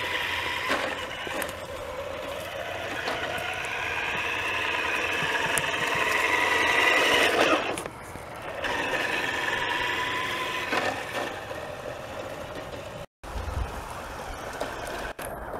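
Twin electric motors and gearboxes of a Radio Shack Extreme Machine RC monster truck whining under power. The pitch climbs for about seven seconds, then drops off suddenly, and the whine comes back a second later at a steadier pitch.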